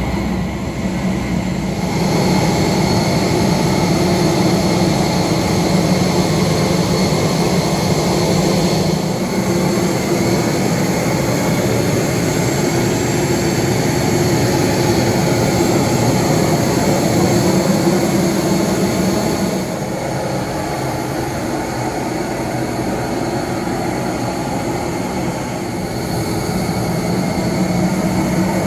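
Steady mechanical hum and rush inside an Airbus A321neo, with several constant tones over an even noise and small shifts in level a couple of seconds in and again about two-thirds of the way through.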